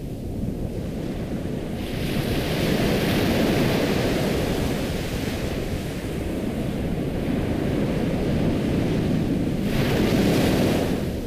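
Ocean surf: waves breaking and washing in. A rush of surf hiss builds about two seconds in and falls away near the end, over a steady low rumble of the sea.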